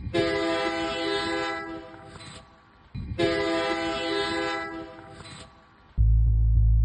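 Two identical horn blasts, each held steady for about two seconds, a chord of several tones like an air horn or train horn. A loud low hum cuts in just before the end.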